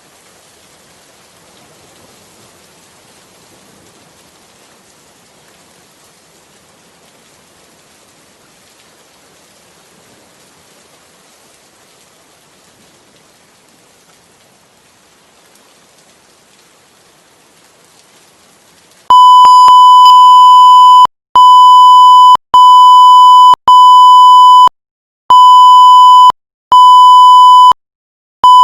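Soft, steady rain hiss. About two-thirds of the way through it gives way abruptly to a very loud, high, steady electronic beep tone, repeated as roughly one-second beeps with short gaps between them.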